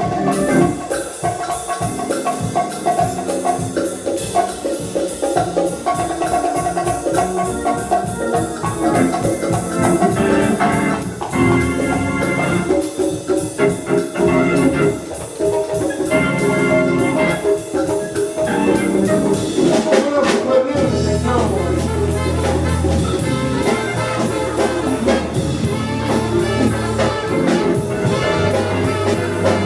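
A live jazz band playing an instrumental tune, with brass lines over steady drums. About two-thirds of the way through, long held low bass notes come in.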